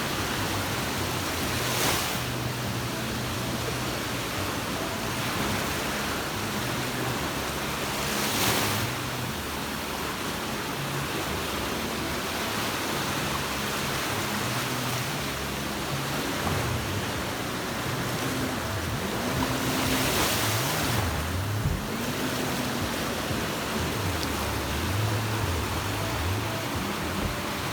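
Sea surf washing onto a beach: a steady rush of waves, swelling louder as waves break about 2 seconds in, again near 8 seconds and around 20 seconds.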